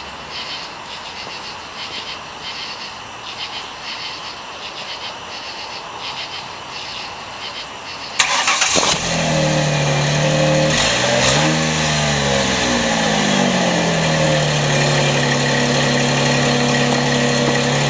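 1999 Ford Windstar's V6 engine starting about eight seconds in, revving up and back down once, then settling into a steady idle. Its tailpipe is fitted with a bike inner tube zip-tied on as a homemade muffler. Before the start there is only fainter background noise with a light regular ticking.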